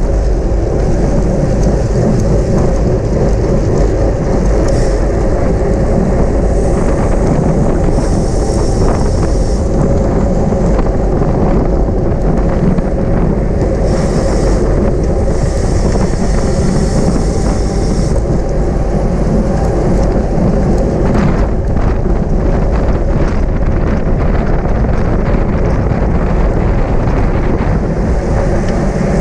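Wind buffeting a camera microphone on a bicycle moving at race speed, a steady loud roar mixed with road and tyre noise. Now and then a hiss comes in for a second or a few seconds.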